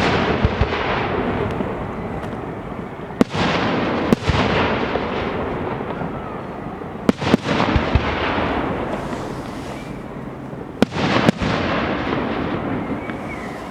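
Display fireworks going off: sharp bangs, some in quick pairs, come about every three to four seconds, each followed by a dense crackling wash that fades over a few seconds.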